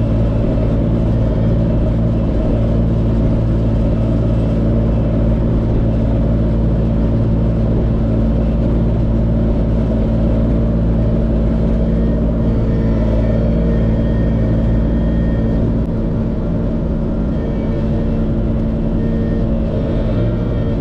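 LS MT357 tractor's diesel engine running steadily at a constant pitch. Its deepest rumble eases off about sixteen seconds in.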